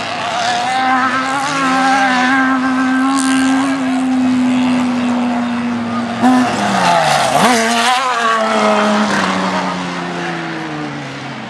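Off-road race truck engines running hard at high revs, holding a steady pitch for several seconds. About seven seconds in, the revs drop sharply and climb back. Near the end the pitch slides steadily lower as the engine note falls away.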